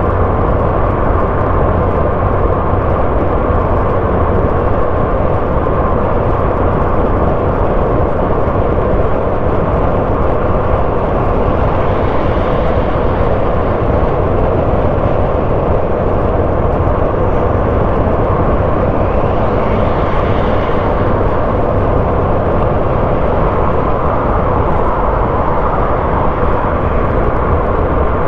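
Car driving along a road: a steady rumble of tyres, engine and air noise, with a faint swell twice.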